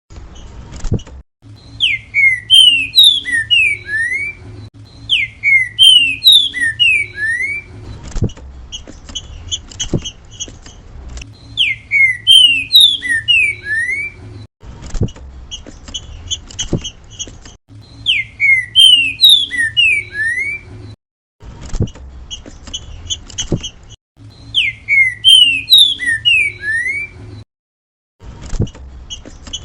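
Green-winged saltator (trinca-ferro) singing its 'grego mole boi' song: a loud phrase of five or six clear, slurred whistled notes, repeated about six times, with short pauses between the phrases.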